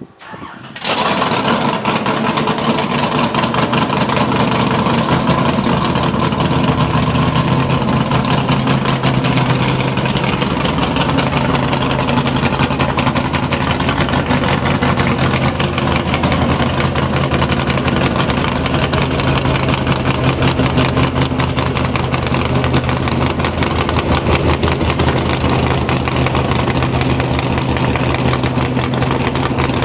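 Chevrolet Malibu drag car's engine firing up about a second in, then running loud and steady at idle.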